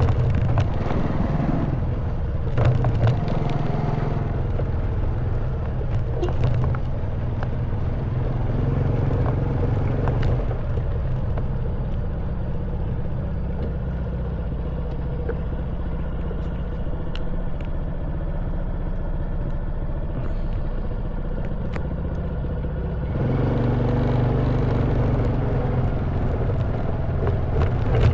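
Honda Wave 110cc single-cylinder four-stroke engine running under way, with scattered sharp clicks and rattles as the bike rides over a rough stone track. About 23 seconds in the engine gets louder, with more rushing noise over it.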